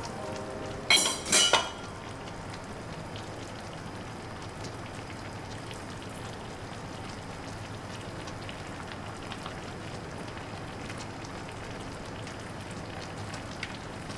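Steady rain falling, an even hiss. About a second in there is a brief cluster of sharp, ringing clinks.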